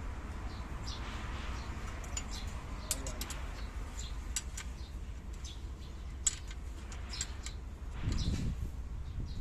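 Small birds chirping now and then over a steady low hum, with a brief low rumble about eight seconds in.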